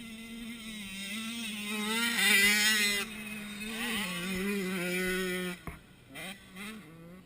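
Motocross dirt bike engine running, its pitch wavering slightly; it grows louder to a peak about two to three seconds in, then drops away suddenly about five and a half seconds in.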